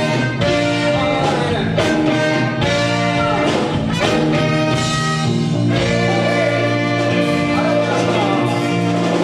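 Live band music with brass horns and a singing voice, loud and continuous.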